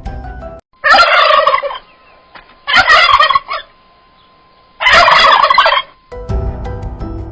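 An animal call given three times, each about a second long, set between stretches of music.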